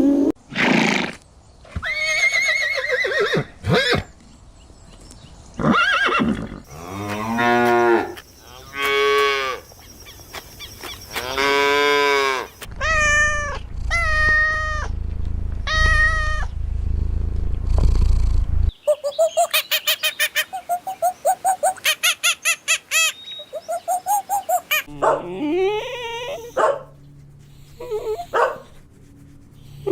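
A string of different animal calls cut one after another, among them cattle mooing in several long calls that rise and fall in pitch.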